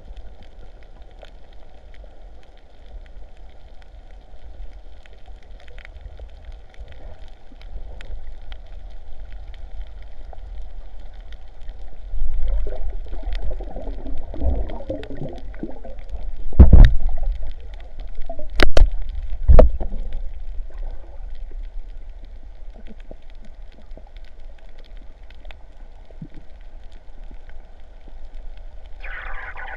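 Muffled sea water sloshing and gurgling, with a surge of louder sloshing a little before halfway and three sharp knocks just after.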